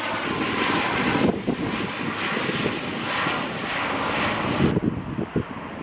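Jet airliner passing low overhead on approach to land, its engines a loud rushing roar; the high hiss falls away suddenly near the end as the plane goes past, leaving a lower rumble.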